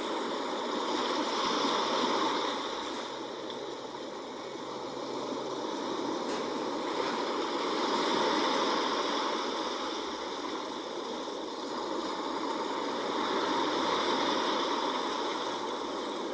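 Sea waves washing in, a steady rush that swells and fades about every six seconds.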